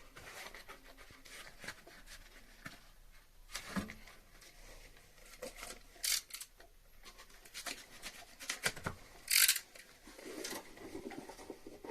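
Scattered rustles, clicks and taps of hands working on air-conditioner refrigerant piping and its insulation wrap. A short, sharp noise burst comes about nine and a half seconds in, the loudest moment.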